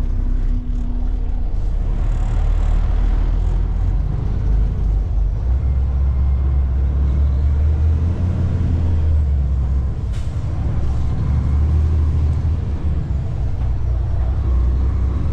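Tractor-trailer's diesel engine running under load, a loud low drone whose pitch shifts a few times as the truck slows and pulls through a roundabout. A single sharp click sounds about ten seconds in.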